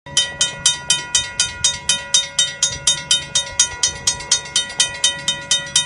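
Railway level-crossing warning bell ringing rapidly and evenly, about four strikes a second, with a steady ringing tone beneath.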